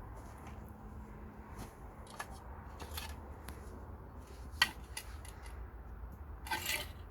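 Scattered light clicks and knocks of handling and assembly work over a low steady hum, with one sharp knock about four and a half seconds in and a brief scraping rustle near the end.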